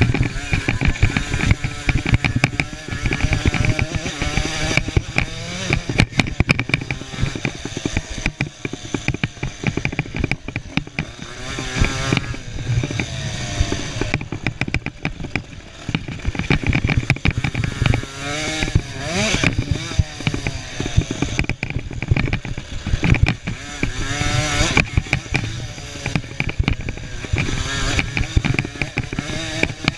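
KTM 50 cc two-stroke youth motocross bikes revving, their high buzzing engine note climbing and falling repeatedly as they ride, with more than one engine heard at times. Many short crackles run through the sound.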